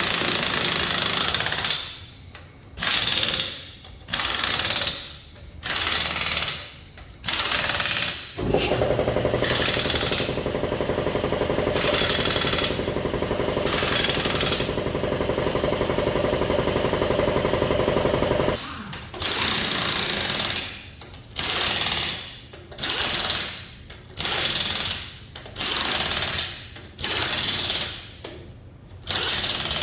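Impact wrench running lug nuts onto the truck's wheels: a string of hammering bursts about a second long each, with one long run of about ten seconds in the middle.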